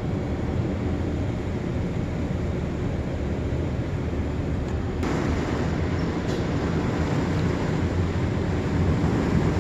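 Automatic car wash machinery running with a steady rumble and the rush of spraying water, growing louder and hissier about five seconds in.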